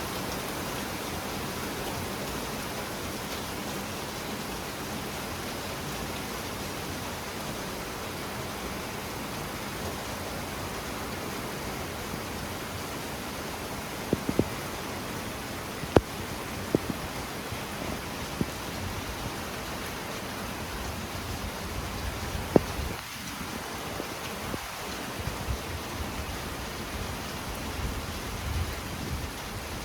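Heavy rain falling steadily in a thunderstorm. From about halfway there are a few sharp taps of drops hitting something close by, and low rumbles in the last several seconds that are likely distant thunder.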